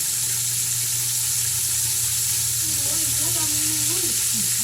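Chicken frying in hot oil, a steady sizzle with a low hum under it. A faint voice comes in over it in the second half.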